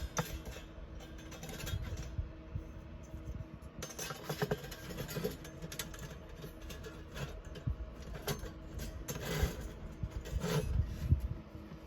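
Small metal parts of a compact folding fire stand clinking and knocking as they are handled, in irregular light strikes with a faint steady hum underneath.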